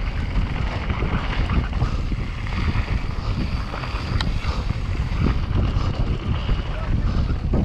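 Mountain bike descending fast: steady wind rush on the microphone over a dense, crackling rattle of tyres and bike on rough ground.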